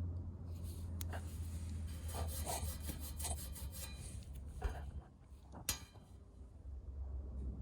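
Scraping and rubbing from the removed blower wheel and its housing being handled, with a click about a second in and a sharp knock a little before the end, over a steady low hum.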